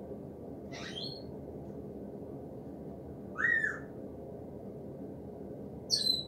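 Three short, high bird calls, the middle one loudest with a rising-then-falling note, over a steady low background rumble.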